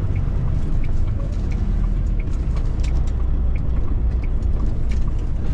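Cab interior of a Freightliner FLD120 semi truck on the move, its Cat 3406E inline-six diesel running with a steady low rumble, with a few faint clicks over it.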